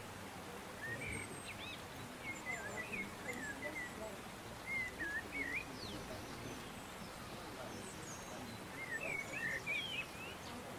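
Small birds chirping and twittering in three short runs over a steady outdoor background hiss.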